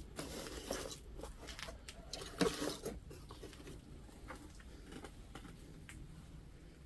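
Small clicks and rattles of jewelry and chains being picked through by hand in a box, with a louder clatter about two and a half seconds in.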